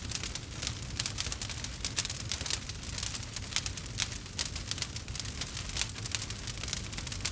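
Campfire burning, with dense, irregular crackles and snaps over a steady low rumble.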